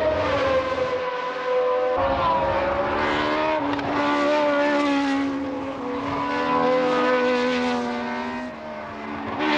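Several 1970s Formula 1 racing engines running at high revs, their pitches overlapping and sliding up and down as the cars pass. The sound dips briefly near the end, then comes back up.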